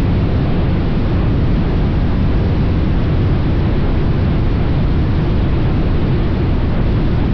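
Steady wind rush on the camera microphone of a moving motorcycle, with low, even road and engine noise underneath.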